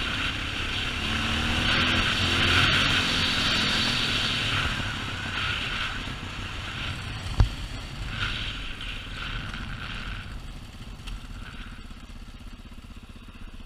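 Motorcycle engine running on the move, swelling over the first few seconds and then fading steadily. There is a single sharp knock about seven seconds in.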